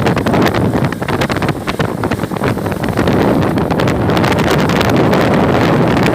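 Strong wind buffeting the microphone: a loud, rough, uneven rush of noise with no steady tone in it.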